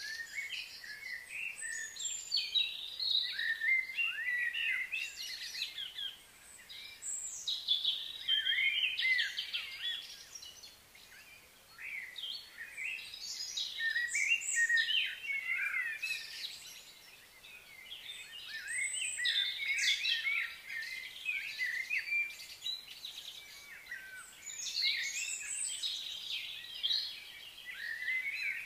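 Birds singing and chirping, many short high calls overlapping, in bouts of a few seconds with brief lulls between.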